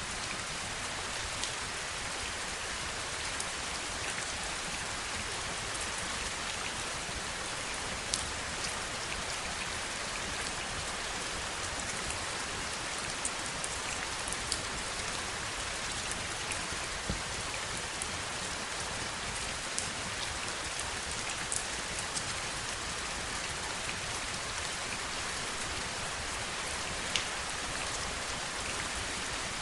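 Heavy rain falling steadily, an even rushing hiss with scattered sharper taps of single drops hitting a surface.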